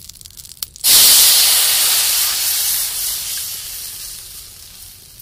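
Wet spice paste poured into hot mustard oil in an iron kadhai, hissing loudly the instant it hits the oil about a second in, then sizzling down steadily over the next few seconds.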